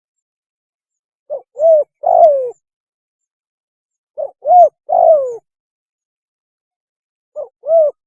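Spotted dove cooing its mating call: a three-note phrase, two short notes and a longer falling one, repeated about every three seconds, with a third phrase starting near the end.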